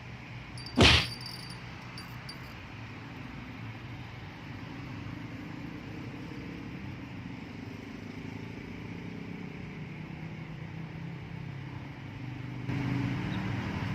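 A steady low engine hum that grows somewhat louder toward the end, with a single sharp knock about a second in.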